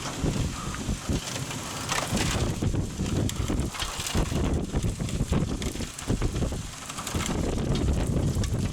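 Thunderstorm wind and rain, with gusts rumbling on the microphone and a rough crackle of rain throughout.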